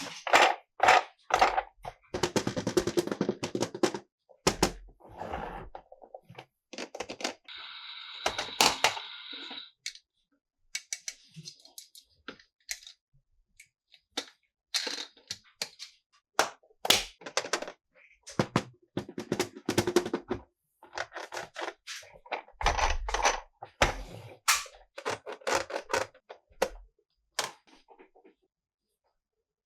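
Hard plastic toy pieces being handled, clicked, snapped and set down in a quick, irregular run of clicks, taps and thunks. A steady buzzing rattle runs for about two seconds near the end of the first third.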